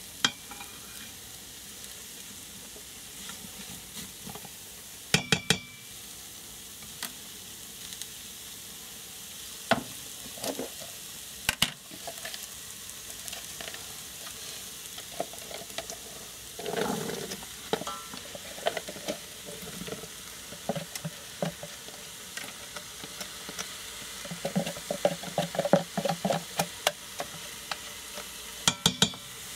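Vegetables and spices sizzling in an Instant Pot's stainless steel inner pot on sauté, stirred with a spatula that scrapes and knocks sharply against the pot now and then. Partway through, cooked chickpeas are tipped in, and near the end liquid is poured in from a carton.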